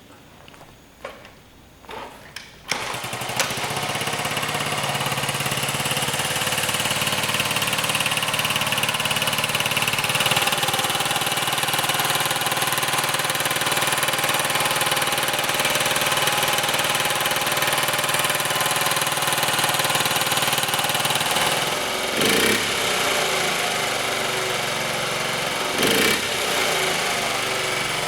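1975 Honda Z50's 49cc four-stroke overhead-cam single starting about three seconds in after a few faint clicks, then running steadily. It rises briefly twice near the end.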